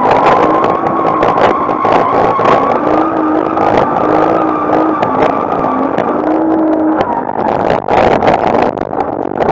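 Nissan Skyline R34's RB25 straight-six drifting with the engine held on the rev limiter: a steady, loud engine note at one pitch, chopped by rapid crackling cuts as the limiter bounces. Tyre noise mixes in.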